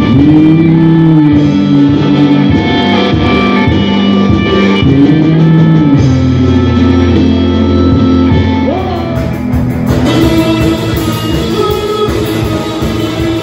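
Live rock band playing, with electric guitar to the fore over a heavy low end. Held guitar notes bend and slide in pitch.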